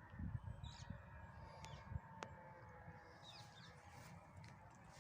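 Faint, scattered birds chirping, with a low wind rumble on the microphone in the first couple of seconds.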